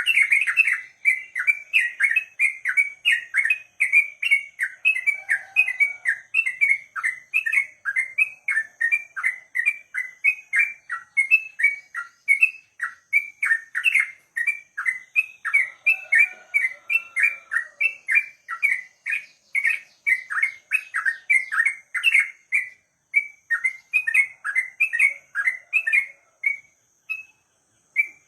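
Yellow-vented bulbul (trucukan) singing a long, unbroken run of quick repeated chirping notes, about three a second, in the rapid 'ropel' style, with a short pause near the end.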